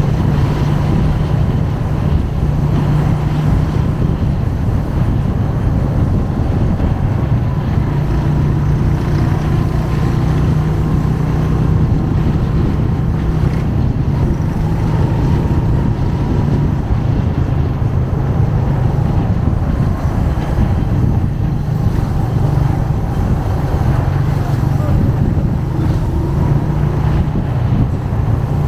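Motorcycle engine running steadily while riding, its low even hum in front, with wind noise on the microphone.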